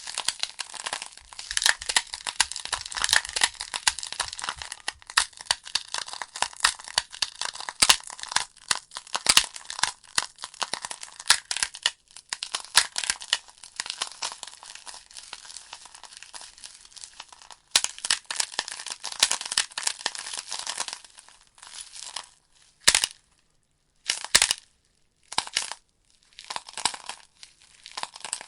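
Wood fire burning in a fireplace, crackling with a dense run of snaps and pops over a soft hiss. Near the end it thins to short crackling bursts with near-silent gaps between them.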